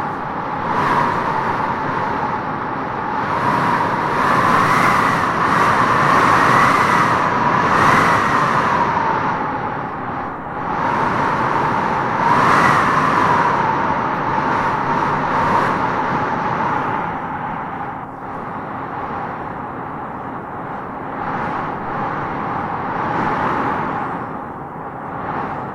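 Wind howling in gusts through trees, a whistling tone that rises and falls in pitch as each gust swells, strongest about a third of the way in and again around halfway.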